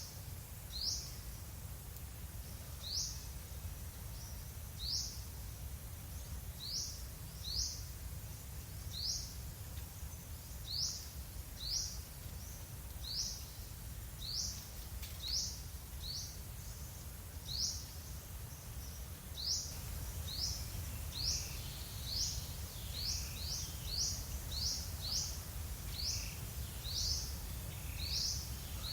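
A bird repeating a short, high, upward-sweeping chirp, one every second or two, coming faster in the last third. A steady low rumble of background noise lies underneath.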